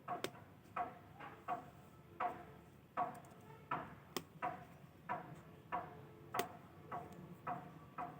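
Sharp little popping clicks, about fifteen at uneven spacing, roughly two a second, each with a brief ringing tone: the popping of head lice being crushed during nit-picking.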